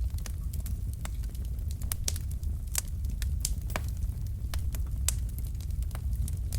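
Logs burning in a fireplace, crackling with irregular sharp pops and snaps over a steady low rumble.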